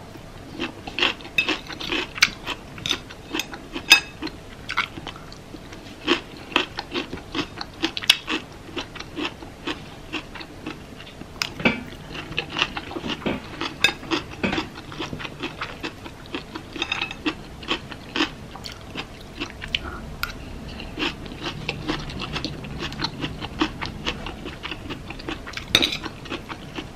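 Close-up eating sounds of a taco rice bowl: chewing and mouth noises, with many short clicks of cutlery against the dish.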